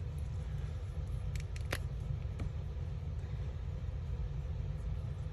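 A steady low rumble, with a few light taps and clicks of paper craft pieces being handled and set down, about one and a half and two and a half seconds in.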